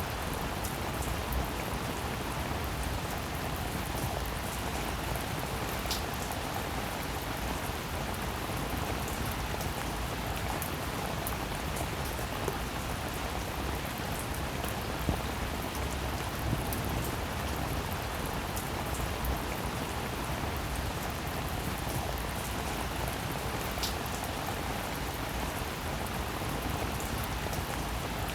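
Steady rain falling, a continuous hiss with the fine ticks of single drops striking a surface and a few slightly louder drops now and then.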